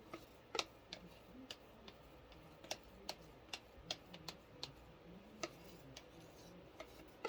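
Faint, irregular light clicks and taps, about two a second and unevenly spaced, over a low room hum.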